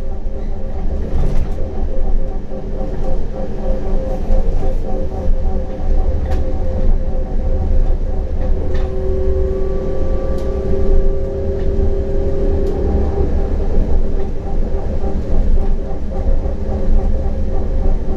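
CAF Urbos 100 low-floor tram running on the line, with a steady low rumble of wheels on rail and an electric traction-motor whine. The whine grows stronger from about nine to thirteen seconds in, and there are scattered sharp clicks.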